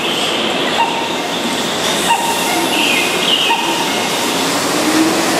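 Keihan 6000-series electric train running slowly alongside the platform as it arrives, with a steady rumble and high squealing tones from the wheels and brakes that come and go.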